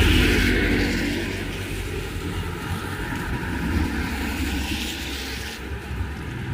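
A motor vehicle's engine passes close by, loudest at the start and fading over the first couple of seconds, over a steady hiss of rain that thins out near the end.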